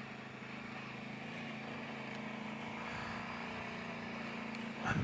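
Kawasaki Brute Force 750 ATV's V-twin engine running steadily at low speed while crawling along a trail, with a short louder thump right at the end.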